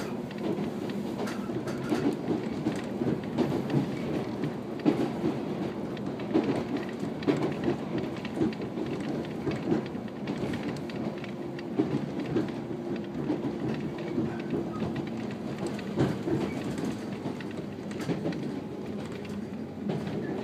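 JR 115-series electric train running, heard from inside the carriage: a steady rumble of wheels on rail with a hum, broken by frequent irregular clicks and knocks from the track.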